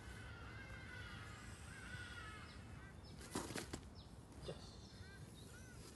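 Faint bird calls: short, repeated arching chirps, with a brief scuffing rustle a little past halfway as the loudest moment.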